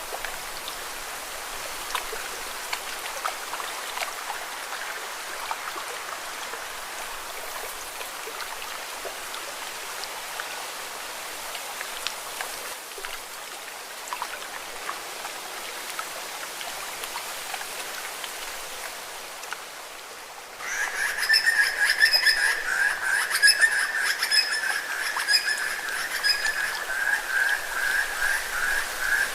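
Lake water lapping and splashing against rocks in a steady wash. About two-thirds of the way through, a loud, high, pulsing trill from a calling animal starts suddenly and goes on over the water.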